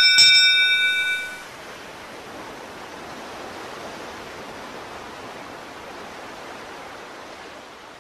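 A single bright bell-like ding that rings out and fades over about a second and a half, followed by a steady hiss.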